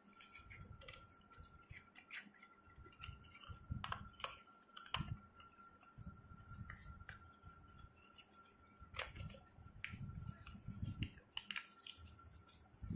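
Sheets of paper being folded and creased by hand: irregular soft rustles, crisp crackles and light taps.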